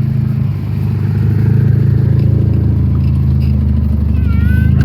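Vehicle engine idling steadily with a low, even hum, dipping briefly about half a second in. A short wavering higher-pitched sound comes near the end.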